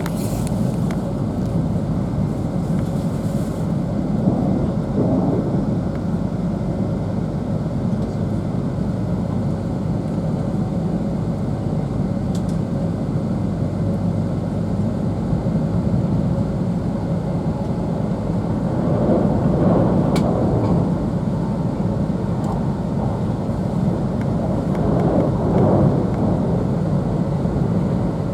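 Cabin noise of an E2 series Shinkansen running: a steady low rumble that swells a few times, around five, twenty and twenty-six seconds in.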